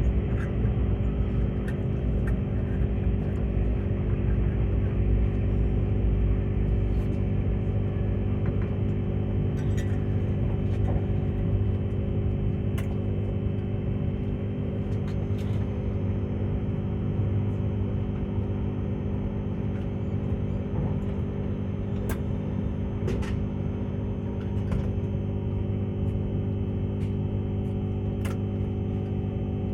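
Steady hum and low rumble inside a Tilt Train passenger carriage, with a few faint clicks; the deepest rumble eases after about six seconds.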